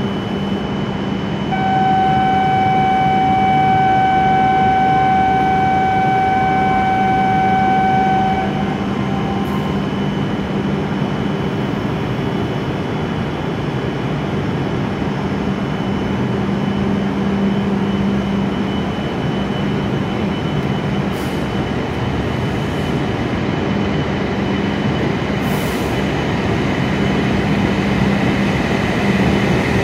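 E7-series Shinkansen train standing at the platform with its onboard equipment humming steadily. For about seven seconds early on, a steady electronic warning tone sounds as the doors and platform gates close. Near the end the train starts to pull away.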